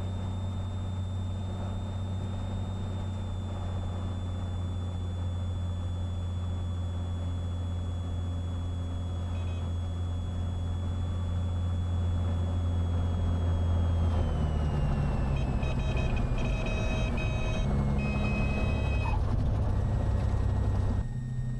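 Cessna 182 Skylane's piston engine and propeller droning steadily through the cockpit intercom on short final. About 14 seconds in the sound changes, and a high tone slides down in pitch as engine speed falls for the flare and touchdown. Short, repeated beeping tones sound over the last several seconds.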